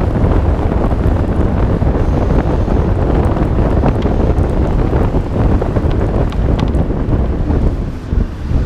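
Wind buffeting the microphone of a hood-mounted camera on a 1991 Nissan Skyline R32 GT-R driving on a wet road, with the car's running and tyre noise underneath. The sound is loud and steady, with a brief dip in loudness near the end.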